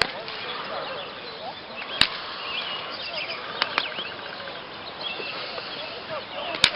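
Many birds chirping and calling over one another, with two sharp clicks, one about two seconds in and one near the end.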